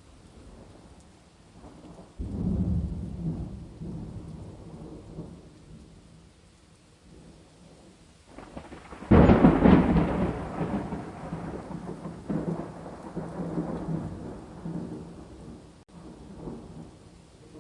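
Thunder over faint steady rain: a rumble begins about two seconds in and dies away, then a louder, sharper clap comes about halfway through and rolls on for several seconds, with a smaller rumble near the end.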